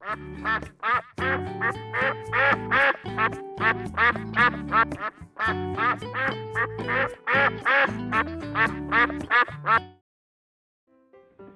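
Duck quacking in quick, repeated calls over children's backing music, both stopping about ten seconds in.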